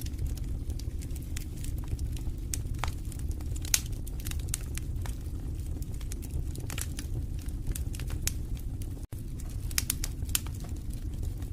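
Wood fire crackling in a fireplace: irregular sharp pops and snaps over a steady low rumble of the flames. The sound cuts out for an instant about nine seconds in.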